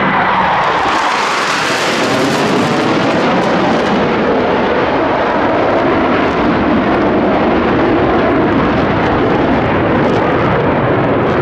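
Boeing F/A-18 Hornet fighter jets flying past the crowd, loud continuous jet noise. A rush of high-pitched hiss swells about two seconds in as the jets pass closest, then the sound settles into a steadier, lower rumble.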